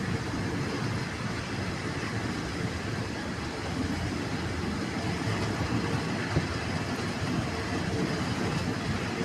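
Train rumbling steadily at a railway station, a continuous low noise with no distinct knocks or horn.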